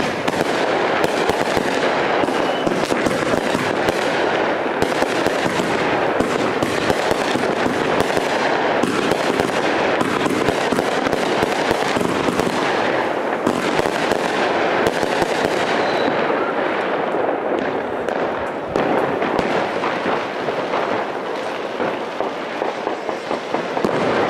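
Consumer firework battery firing, a dense, continuous crackle packed with sharp pops, thinning out over the last few seconds.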